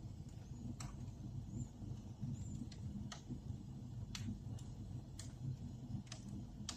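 Wood fire burning in a fireplace: a low steady rumble of flames with sharp crackles and pops about once a second.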